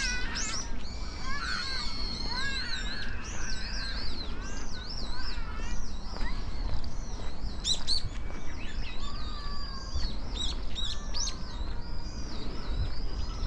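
Several small songbirds chirping and warbling, their quick rising and falling calls overlapping, over a steady low rumble.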